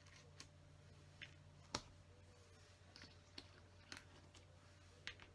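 Scattered light clicks of plastic LEGO pieces being handled and pressed into place, about eight in all, the sharpest a little under two seconds in, over a faint steady hum.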